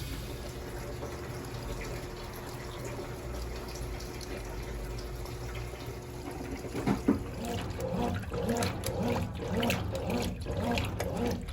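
Brastemp Clean BWC10 top-load washing machine filling with water, a steady rush. About seven seconds in, a rhythmic pulsing joins it, repeating about twice a second.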